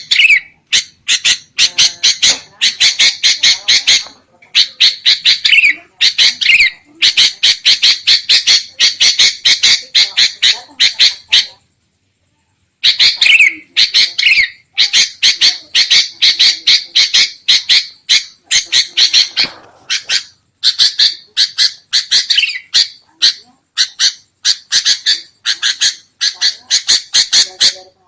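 Sooty-headed bulbuls (kutilang) giving agitated, rapid chattering calls, the 'ribut' call used to lure wild bulbuls: quick sharp notes several a second in long runs, broken by short pauses and by a full break about twelve seconds in.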